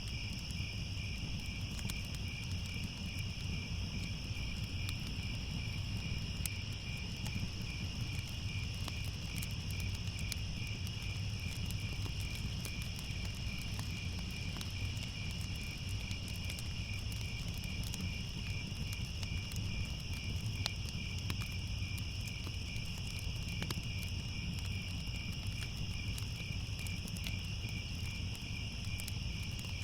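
Crickets chirping in a steady, evenly pulsed chorus, with a low steady rumble underneath and faint scattered clicks.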